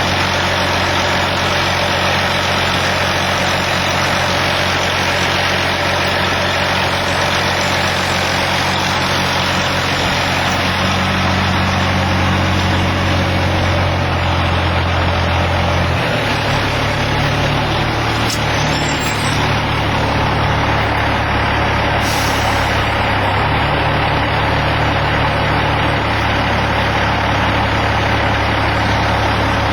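Caterpillar C-13 diesel engine of a 2005 Kenworth W900L dump truck running steadily. Its low note changes pitch about halfway through.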